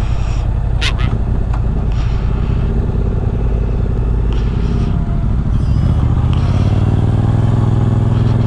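Motorcycle engine running at low speed, with the revs rising a little about six seconds in.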